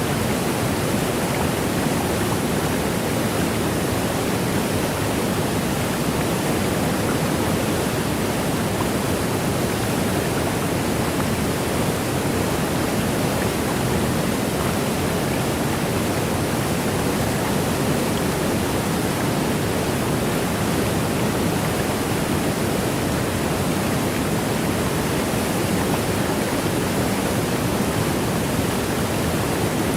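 Waterfall: a steady, unbroken rush of falling water, heaviest in the low-middle range and unchanging throughout.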